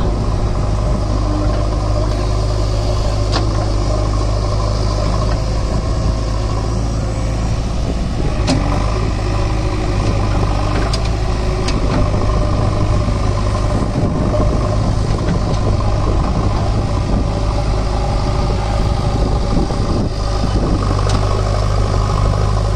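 Diesel engine of a JCB backhoe loader running steadily, with a few short sharp knocks at irregular moments.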